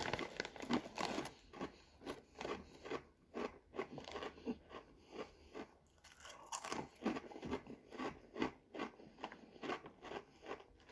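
Crunchy spicy pea crackers being bitten and chewed: a steady run of crisp crunches, about two or three a second, with a louder fresh bite a little past halfway through.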